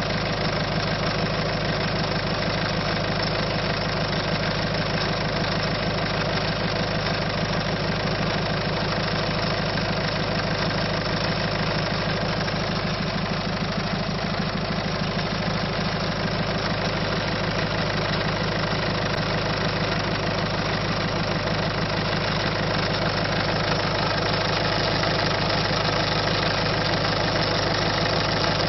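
Citroën C5's 1.6 HDi four-cylinder turbodiesel engine idling steadily, the engine noise of a car that is down on power.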